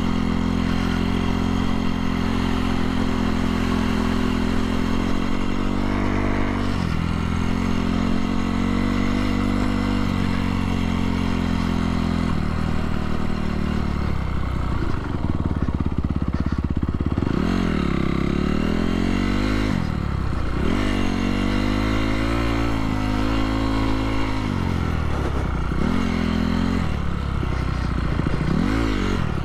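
2017 Honda CRF250R's single-cylinder four-stroke engine running under way. It holds a steady pitch for about the first twelve seconds, then the throttle is worked on and off, the pitch rising and falling several times in quick succession.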